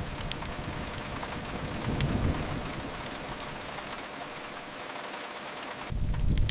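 Steady rain hiss over a low rumble. The rumble fades away past the middle and comes back suddenly near the end. A few sharp crackles from a fireplace fire break through.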